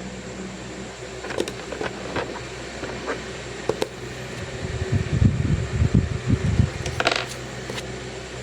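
Steady white-noise background hiss with a faint hum, under the handling sounds of drawing. Light ticks and clicks come between about one and four seconds in, then a run of low thumps, and a short scratching rub near the end.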